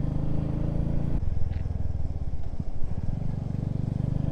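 Motorcycle engine running while riding along, heard from on the bike. About a second in the sound changes suddenly to a more pulsing, throbbing engine note.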